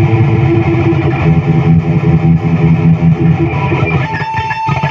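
Electric guitar played through a Zoom G1X Four multi-effects pedal into a Peavey 6505+ combo amp: low chords held and ringing, then about four seconds in, quick choppy notes.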